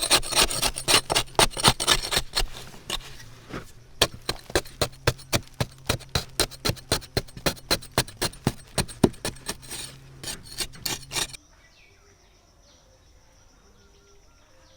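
A hand tool working wood in fast, rhythmic rasping strokes, about three a second, which stop abruptly about eleven seconds in.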